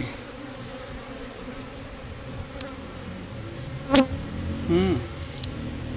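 Honeybees buzzing in a steady hum around an open hive. A single sharp knock comes about four seconds in.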